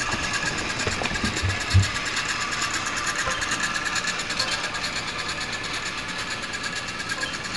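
Toy Christmas train running around its track: a steady small-motor whir with fast, even clicking, and two soft low thumps about one and a half seconds in.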